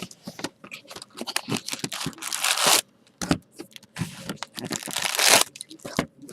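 Trading card packaging being torn open and crinkled: two long rips, one about two seconds in and a longer one about four seconds in, with small rustles and clicks between them.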